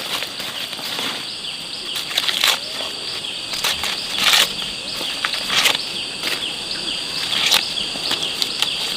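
Steady high-pitched drone of insects, with a handful of sharp dry crackles and rustles at irregular intervals.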